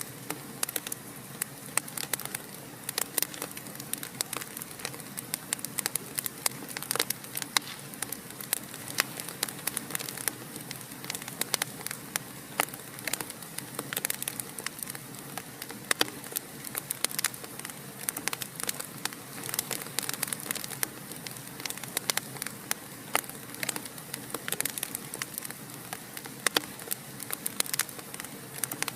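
Fire in a fireplace crackling: dense, irregular sharp snaps and pops over a soft steady hiss.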